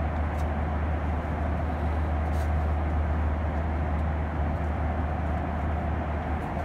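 Steady drone of engine and air noise inside the cabin of a Boeing 737-900ER airliner, even and unchanging, with a strong low hum under a broad rush.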